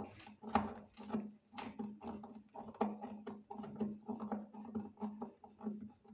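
Irregular small knocks and clicks of parts being handled during a washing machine drain motor repair, over a steady low electrical hum.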